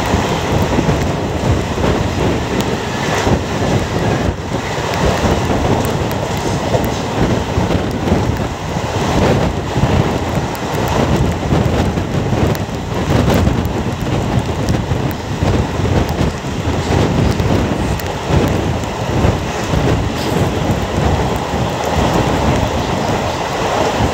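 Passenger train running at speed, heard from an open door: the steady rumble of the coaches on the rails under heavy wind buffeting the microphone.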